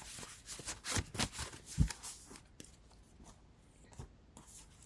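A tarot deck being shuffled by hand: a quick run of papery flicks and rustles over the first two seconds or so, with a soft thud near the middle of the run, then only a few faint, scattered flicks.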